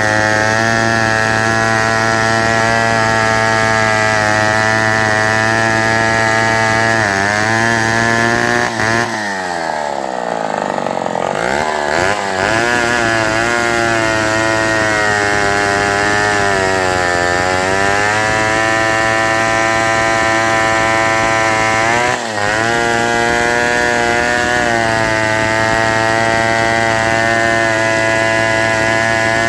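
1961 Homelite WIZ A gear-drive chainsaw running with its muffler gutted, stupid loud. Its engine speed sags and recovers several times, most deeply about nine seconds in, as the half-inch pitch chain bogs in the cut.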